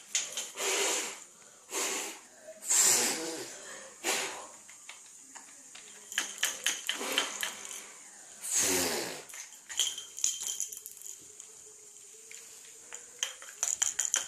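Children's wordless voices and breathy blowing, broken by quick clicks and clinks of small plastic bubble toys.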